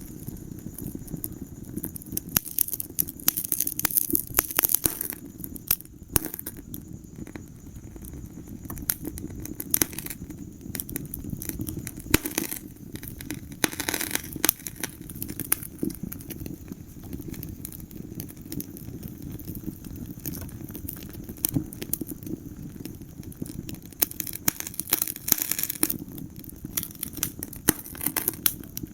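Wood fire crackling in a fireplace: a steady low rumble of flames with frequent sharp pops and snaps, and bursts of hissing a few times.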